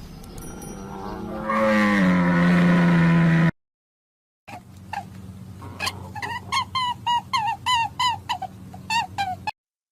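Two animal calls edited back to back. First a loud, drawn-out low call falls in pitch and is cut off abruptly. After a short silence comes a run of short, high chirping calls, about three a second.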